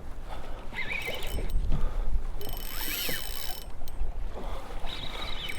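Fishing reel working in three short bursts, a ratcheting, gear-like whir each time, as line goes in or out on a hooked fish being fought.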